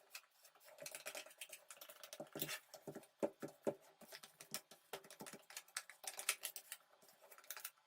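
A putty knife scraping and clicking against an aluminium engine casing as filler is pressed into its gouges: faint, irregular ticks and short scrapes, busiest in the middle.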